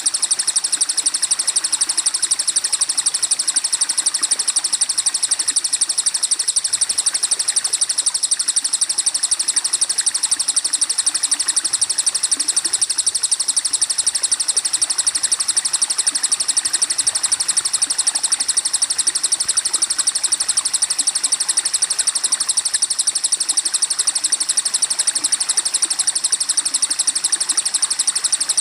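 Birdsong training recording: songbird calls over a continuous, rapidly pulsing high-pitched trill that stays even and unbroken throughout.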